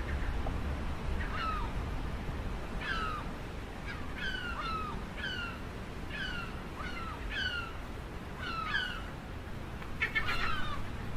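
A gull calling: a series of about ten short mewing cries, each sliding down in pitch, with a quick cluster of calls near the end.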